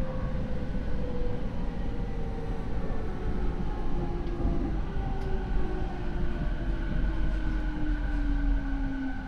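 Rinkai Line 70-000 series electric train's Mitsubishi IGBT inverter and MT73 traction motors whining with a steadily falling pitch as the train slows, over low rumbling wheel and rail noise, heard inside the car. This car's motors are unusually loud, and the recordist lists it as an abnormal-noise car.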